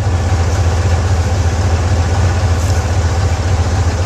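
1980 Ford F-150 pickup engine idling steadily after a cold-weather jump start, with a deep, even low hum.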